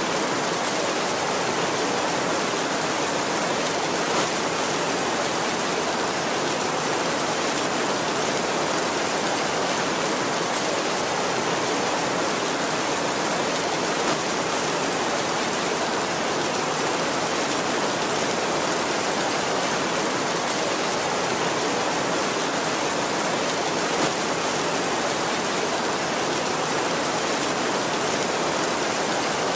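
Heavy rain falling steadily on a tin roof, an even hiss with a few slightly louder taps about every ten seconds; no thunder.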